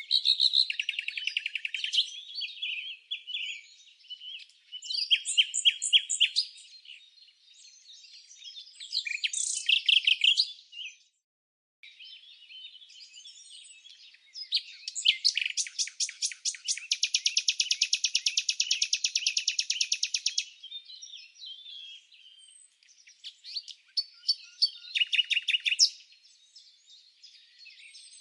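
Songbirds chirping and singing in short bursts of high-pitched notes, with a long, very rapid trill lasting about five seconds a little past the middle.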